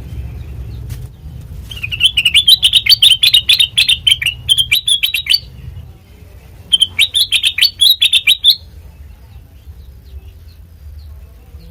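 Kutilang mas bulbul singing two quick, chattering phrases of rapid notes, the first about three and a half seconds long and the second about two seconds after a short pause. A steady low hum runs underneath.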